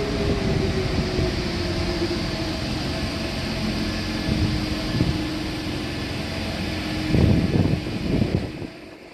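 Train running through the station: a steady rumble and hiss with a whine that slides down in pitch over the first few seconds, then holds level. A few heavier thumps come near the end, then the sound drops away.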